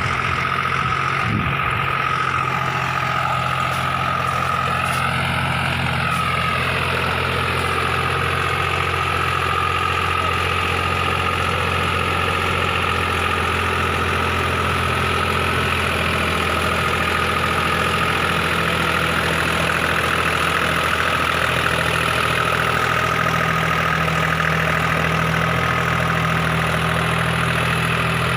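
Deutz-Fahr Agrolux 50 tractor's diesel engine running steadily at an even speed.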